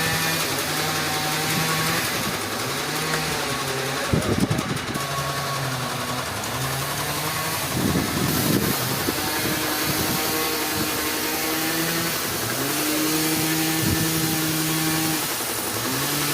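An engine running, its pitch stepping up and down several times as its speed or load changes, with a short clattering noise about four seconds in and again about eight seconds in.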